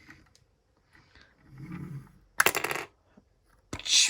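Hard plastic Lego pieces clicking and rattling as a Lego truck is handled, in two short clattering bursts: one about two and a half seconds in and another near the end.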